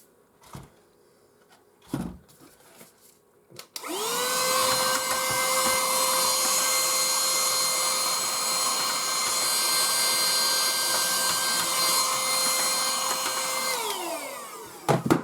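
A small electric motor spins up with a rising whine and rushing air, runs steadily for about ten seconds, then winds down near the end. A few light knocks come before it starts.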